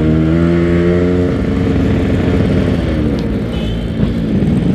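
Yamaha RX-King 135cc two-stroke single-cylinder motorcycle engine under way: it revs up and holds for about the first second, then the throttle eases off and the pitch falls, picking up again near the end.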